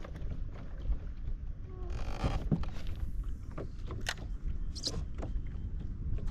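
Wind rumbling on the microphone on a kayak, with a brief rushing noise about two seconds in and a couple of sharp clicks or knocks later.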